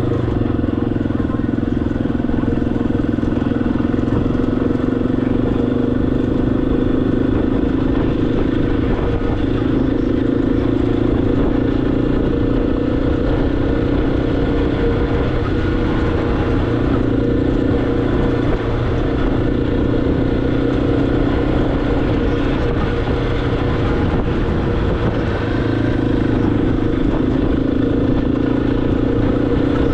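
Motorcycle engine running steadily while riding, its note rising and falling a little, over a constant rush of road and wind noise.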